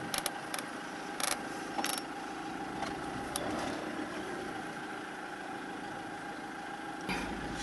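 Four-wheel-drive vehicle's engine idling steadily, ready to pull on a tow rope, with a few sharp clicks in the first seconds; a low rumble comes in near the end.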